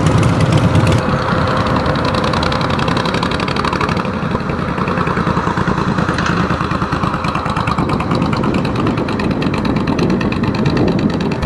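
Motorcycle engine running steadily, heard as a rapid, even throb of firing pulses.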